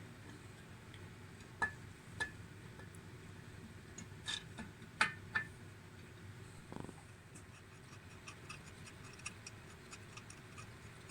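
Scattered light clicks and taps: a few sharper ones in the first half, then a run of faint quick ticks.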